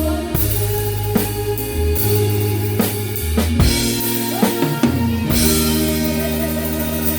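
A live band playing: a drum kit hits accents with kick, snare and cymbals over sustained bass notes and chords, settling into a held chord a little after five seconds in.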